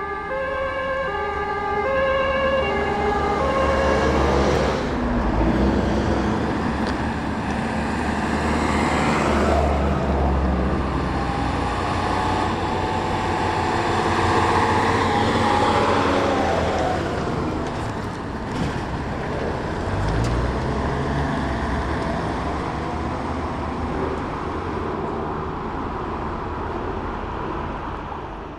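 Emergency vehicles passing on a road: a German two-tone siren alternates between two pitches and stops a few seconds in. Engine and tyre noise follows, swelling and fading several times as vehicles go by.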